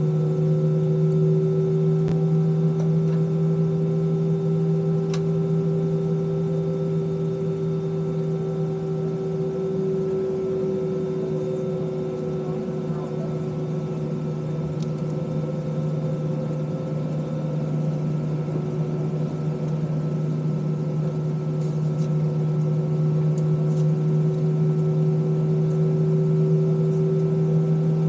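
Steady hum of an Airbus A320 heard inside the cabin, its engines and air-conditioning running at idle. The drone holds a constant low pitch with a few fixed higher tones and dips slightly in loudness midway.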